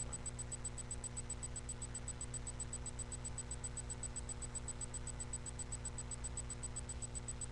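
Steady low electrical hum with faint hiss, the background noise of a webcam microphone, with no distinct handling sounds.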